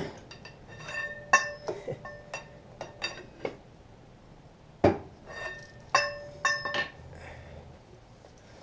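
Metal tools and parts clinking and knocking against each other: about a dozen irregular strikes, several leaving a short metallic ring, the loudest about five seconds in.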